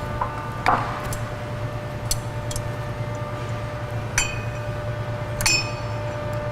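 Four sharp metallic clinks with short ringing, from steel drum-brake hardware and tools being handled, over a steady low hum.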